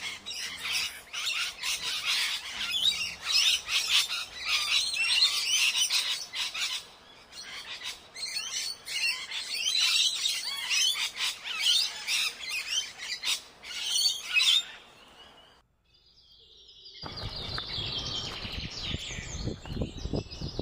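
A flock of small birds chirping and calling rapidly, many quick overlapping chirps. About fifteen seconds in it fades away, and after a short silence a rougher, rumbling outdoor noise comes in with faint bird calls over it.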